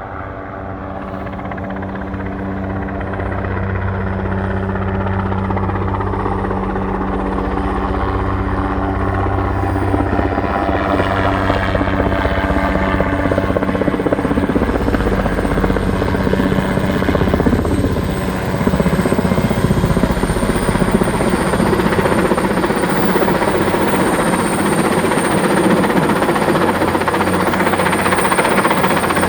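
Erickson S-64 Aircrane heavy-lift helicopter running close by: the rotor and twin turbine engines grow louder over the first few seconds and then stay loud, with a thin high turbine whine over the top.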